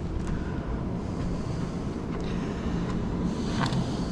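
Steady rushing air and low hum of a Carrier air handler's blower running, with a few faint knocks and rustles.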